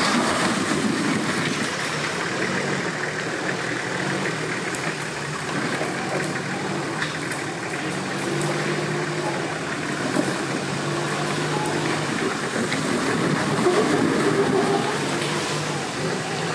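An off-road 4x4's engine runs as it drives in mud, its revs shifting up and down, getting louder about two-thirds of the way through.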